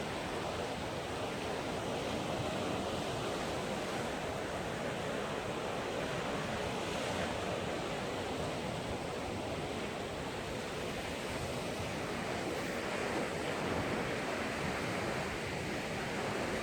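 Sea waves breaking against rocks: a steady, continuous wash of surf.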